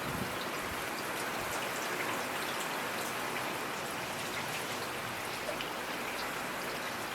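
Steady rainfall, an even hiss of rain with scattered droplet ticks.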